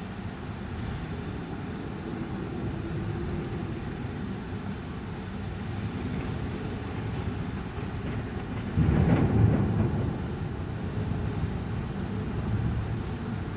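Thunderstorm: steady noise of heavy rain and storm wind, broken about nine seconds in by a sudden loud thunderclap that rumbles and dies away over a second or two.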